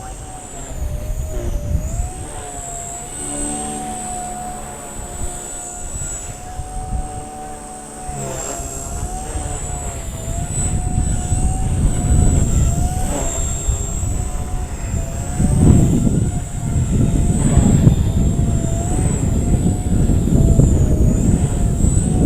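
Blade 130 X micro electric RC helicopter in flight: a steady high motor and rotor whine whose pitch wavers slightly as the rotor speed shifts. Wind buffets the microphone with a low rumble, growing stronger about eight seconds in and gusting hardest in the second half.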